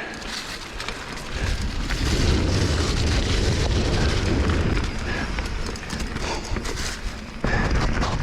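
Wind rumbling on the microphone and tyres rolling over trail on a bicycle ride. The rumble grows louder about two seconds in, with scattered clicks and rattles.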